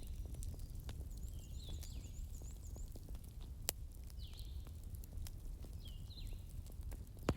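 Bonfire crackling over a low rumble, with a sharp pop about three and a half seconds in and another near the end. Birds chirp with short hooked calls every second or two.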